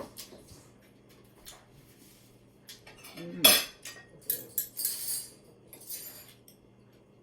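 Cutlery clinking and scraping against a plate: scattered light clinks, with the loudest one about three and a half seconds in and a cluster of clinks after it.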